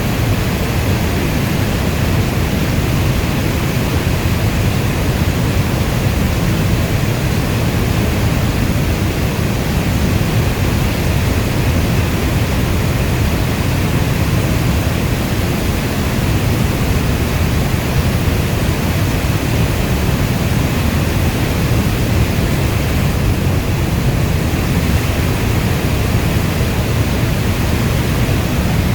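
Steady rainfall, a dense even hiss strongest in the low end, with no thunder or separate drops standing out.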